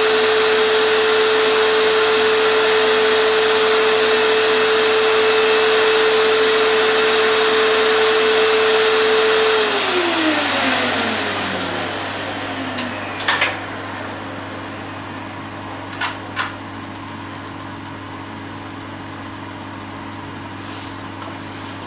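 Evolution Rage 5S mitre saw's motor running at full speed. About ten seconds in it is switched off and winds down in a falling whine over a couple of seconds. A quieter steady hum continues after it, with a few light clicks.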